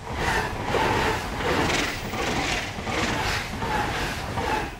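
E3 series Shinkansen train passing close by, its wheels clattering over the rails in a steady rhythm, about one beat every three quarters of a second, under a rushing roar. The sound fades off sharply just before the end as the last car goes by.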